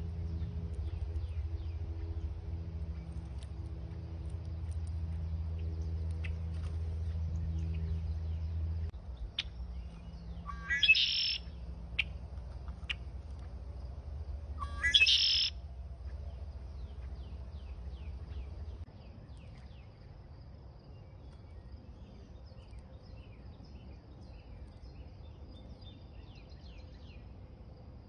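Backyard birds chirping, with many short high chirps throughout and two loud upward-sweeping calls about four seconds apart near the middle. A low steady hum sits underneath, drops in level about a third of the way in and stops a little past the middle.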